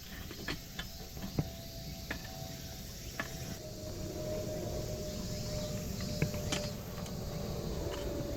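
Scattered light clicks and taps of camping gear being handled, over a steady low outdoor rumble. A faint steady hum grows a little stronger from about the middle.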